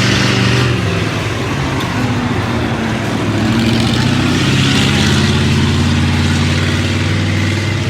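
Monster truck engine running loud, its pitch wavering a second or so in and settling to a steady drone from about four seconds in.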